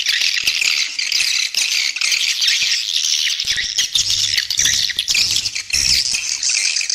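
Swiftlet call recording: a dense, continuous chorus of rapid, high twittering chirps from edible-nest swiftlets, the lure sound played to draw swiftlets into a nesting house. A faint low hum joins about four seconds in.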